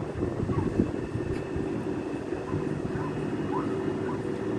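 Electric passenger train at the platform, a steady hum with a constant tone over a low rumble.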